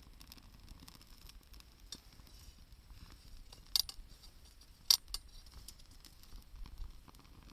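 Wood campfire crackling faintly, with two sharp pops about a second apart near the middle.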